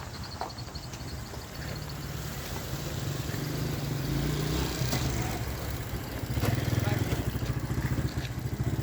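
A motor vehicle's engine running and getting louder, strongest in the last couple of seconds, with voices in the background.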